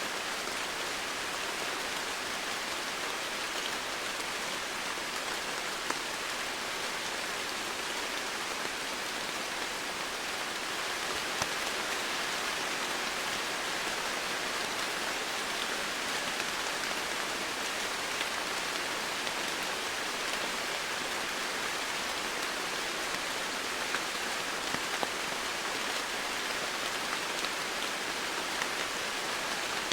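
Steady heavy rain falling, an even hiss with a few separate drop ticks now and then.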